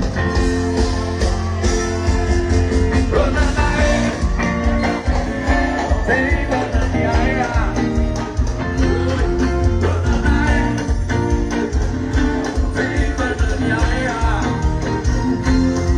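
Live axé band music played loud over a trio elétrico's sound system: a steady drum-and-bass beat under chords, with a gliding lead line in the instrumental break between sung verses.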